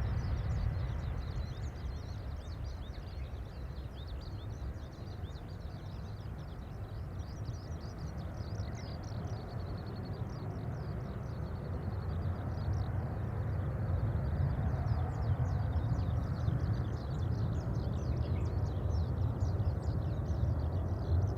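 Distant, steady low rumble of a departing Boeing 737-800's CFM56 jet engines climbing away, dipping in the middle and swelling again near the end. Many short high chirps run over it.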